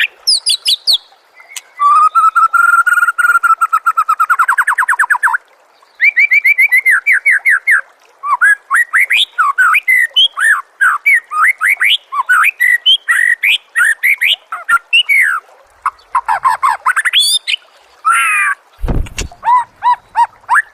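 Songbird singing loud, varied phrases: rapid trills of repeated notes and quick rising and falling whistled slurs, broken by short pauses. A short deep falling sound cuts in near the end.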